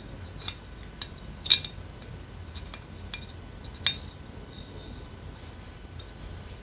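Small metal engine parts and hand tools clinking and tapping against each other on a workbench: a handful of light clicks, with two louder clinks about a second and a half and about four seconds in.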